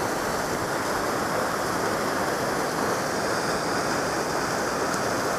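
Powerful glacial waterfall pouring, a steady rush of falling water.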